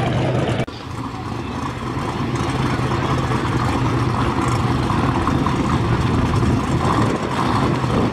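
Twin-turbo Mustang drag car's engine running steadily on the track, with an abrupt dip in level about a second in.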